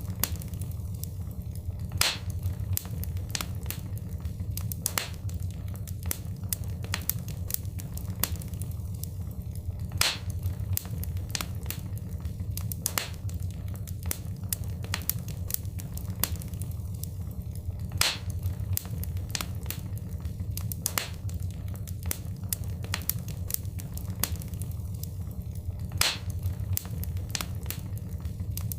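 Wood fire crackling: frequent sharp pops and snaps over a steady low rumble of the flames, with a louder pop about every eight seconds.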